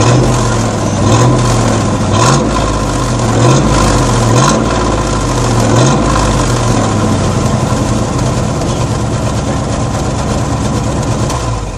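Old truck's engine revved in short throttle blips about once a second, then held at a steady run for several seconds before dying away at the very end as it is shut off.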